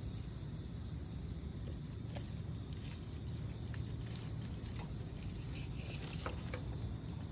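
Campfire burning with pine needles: scattered sharp crackles and pops over a steady low rumble, with a cluster of crackles a couple of seconds in and another near the end.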